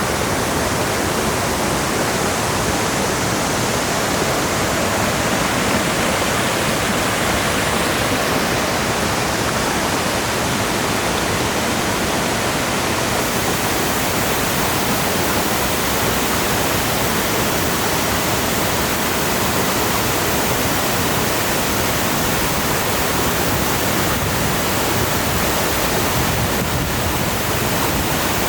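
Upper cascade of a waterfall running, a steady rush of falling water with no change throughout.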